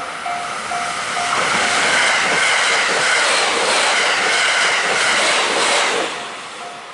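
Train passing a level crossing, a loud rush of wheels on rail that builds about a second in and dies away near the end. Throughout, the Japanese level-crossing warning bell rings about twice a second, drowned by the train in the middle and heard again as it passes.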